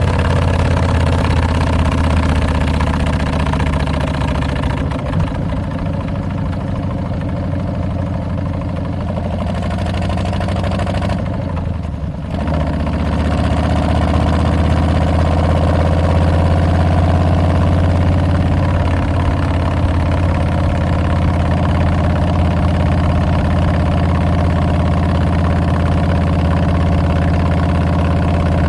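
Exhaust of a Harley-Davidson Milwaukee-Eight 114 V-twin through Tabs Performance slip-on mufflers with Zombie Baffles, running steadily. It goes softer for several seconds, dips briefly about twelve seconds in, then comes back on at a steady, louder note for the rest.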